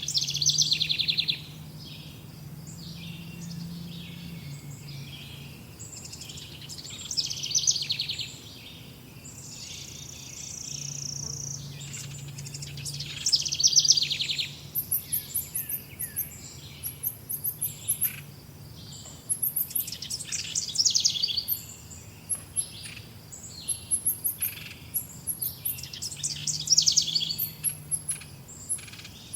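Several songbirds singing: a fast trilling song recurs about every six seconds, with thin, very high chirps in between from about halfway on. A faint low hum comes and goes underneath.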